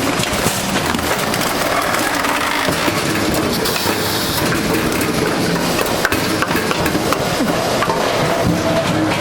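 Jangsa WP-140 hydraulic firewood splitter running on its automatic line, logs cracking and splintering as they are split, with a steady clatter of machinery throughout.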